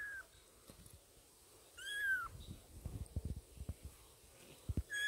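Two-week-old kittens mewing: short, high, arching cries, one about two seconds in and another starting near the end, with soft taps and rustling between them.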